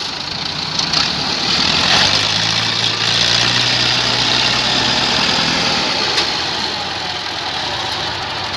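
Massey Ferguson 265 tractor's diesel engine running loudly and steadily, its note easing a little about six seconds in.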